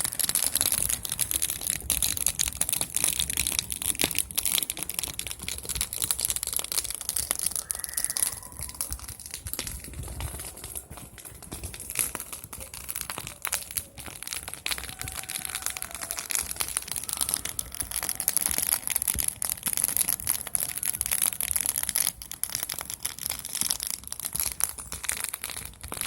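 Wood campfire burning and crackling, with many small irregular pops over a steady hiss.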